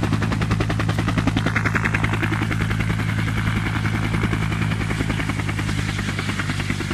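Helicopter rotor running close by during landing: rapid, regular blade thumps over a steady low engine hum, easing very slightly toward the end.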